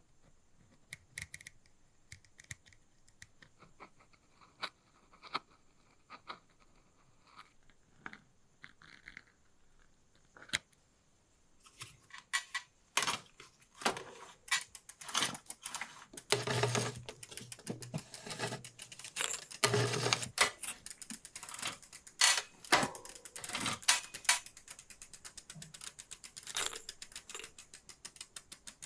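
Metal clicks and clatter of bicycle parts being worked on, sparse at first and busier and louder from about twelve seconds in. Near the end it turns into a fast, even ticking.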